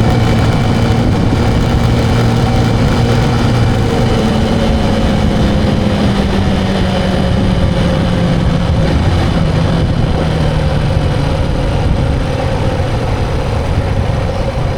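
A motor vehicle engine running steadily, its pitch slowly falling over the first ten seconds or so.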